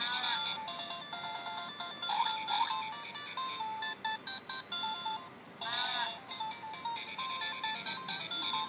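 Tinny electronic tune from a VTech animal-sounds toy: a simple melody of short stepped beeping notes, with a brief warbling sound effect at the start and another about six seconds in.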